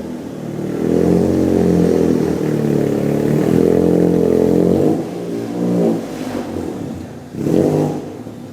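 Car engine revved hard and held at high revs for about four seconds, then two shorter revs, as the stuck car strains to drive free.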